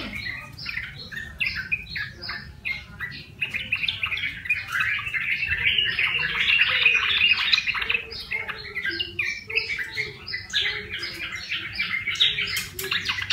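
Sooty-headed bulbul calling in a quick, continuous chatter of short rising and falling notes, busiest around the middle. The bird is a wild catch that has come into voice after a month in captivity.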